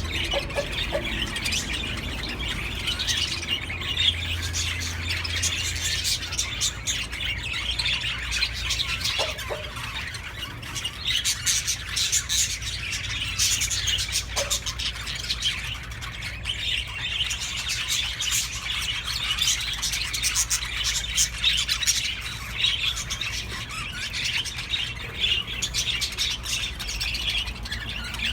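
Budgerigars chattering and warbling without a break, with scratchy squawks and quick chirps overlapping: the mating chatter of budgies in breeding mood.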